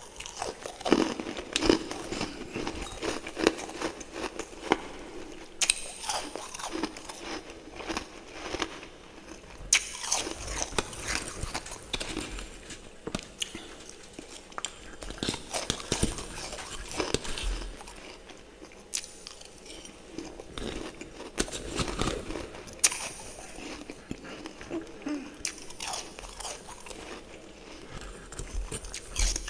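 Close-up biting and chewing of freezer frost and refrozen frost chunks: a run of irregular sharp crunches and crackles, one after another.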